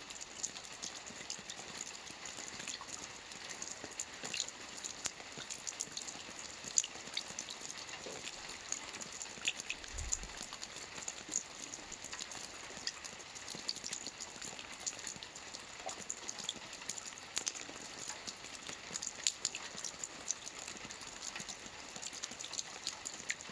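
Soft rain falling steadily on a roof: a dense, even hiss of many small drops pattering at irregular moments.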